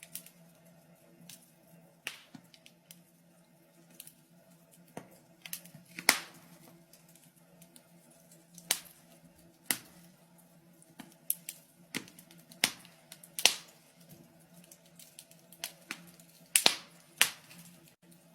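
Wood fire in a fireplace crackling, with sharp, irregular pops about once or twice a second over a faint, steady low hum.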